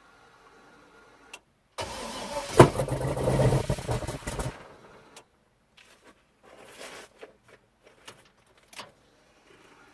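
A swapped-in 6.0 V8 in a Chevy S10 cranks and fires about two seconds in with a sharp crack, runs unevenly for a couple of seconds, then dies: a first start-up attempt on a fresh engine swap that does not keep running.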